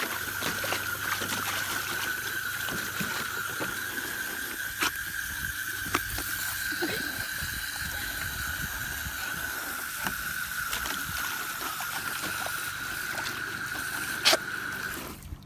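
Water running and splashing, with a steady high-pitched tone underneath and a few sharp clicks; it cuts off about a second before the end.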